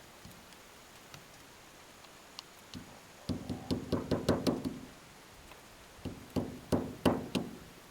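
Knocking and tapping on parts during a hydraulic cylinder seal replacement: a quick run of about eight light knocks a little past the middle, then three more near the end.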